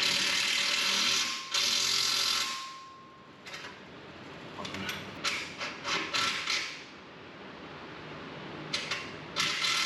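Ratchet wrench tightening bolts as the exhaust is bolted back on, in two runs of about a second near the start, a string of short bursts midway and another run near the end.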